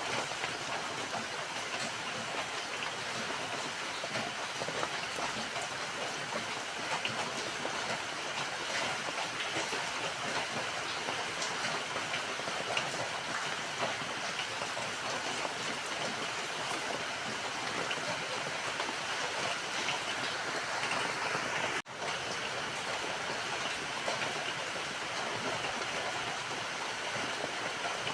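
Steady rain falling, an even hiss of many drops. The sound cuts out for a split second about three quarters of the way through, then carries on as before.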